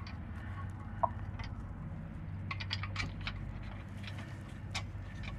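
Scattered light clicks and taps of tools and metal parts being handled during rear hub work, a few in quick succession around the middle, over a steady low hum.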